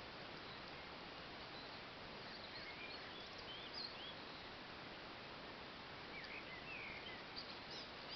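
Faint birdsong: scattered short high chirps and whistles from small birds, in two clusters, over a steady hiss.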